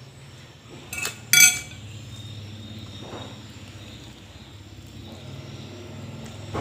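Tableware clinking twice about a second in, the second clink louder and ringing briefly, over a steady low hum.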